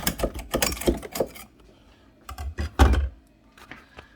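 Quick rapid knocking and scraping on the iced-up fridge ice maker compartment while the ice buildup is being worked loose, then after a short pause a few more knocks ending in a heavy thump about three seconds in.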